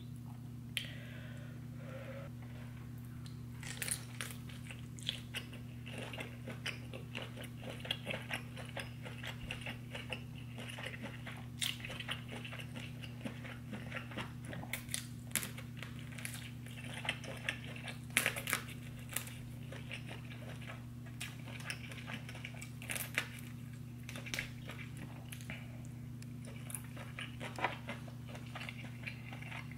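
Close-miked chewing, biting and wet mouth smacking of a person eating a buttery deshelled seafood boil, with many short sharp clicks scattered throughout. A steady low hum runs underneath.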